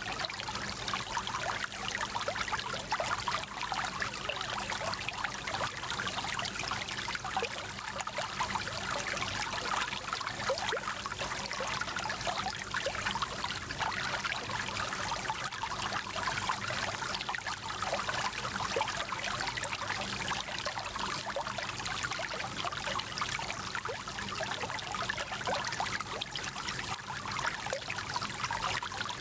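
Small stream flowing, a steady rush of water with many small trickles and splashes.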